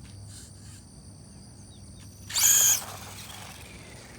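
Electric RC drag car with a 4.5-turn motor launching: a loud, high whine about half a second long, a little past two seconds in, over steady cricket chirring.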